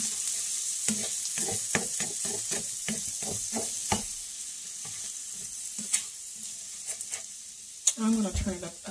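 Eggs and ground meat frying in oil in a skillet, sizzling with a hiss that slowly fades. A utensil stirs them around the pan with repeated short scrapes and clicks against it.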